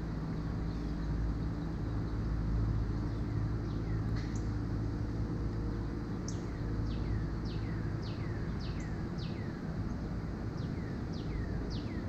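A bird calling repeatedly with quick, steeply falling whistles, a few at first and then a rapid run of them, over a steady low hum.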